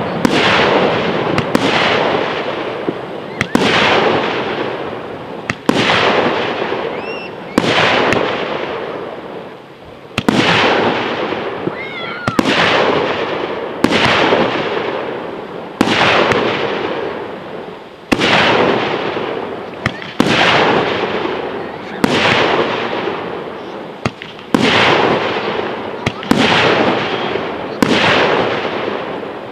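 Aerial firework shells bursting about every two seconds, each sharp bang followed by a long fading rumble of echo.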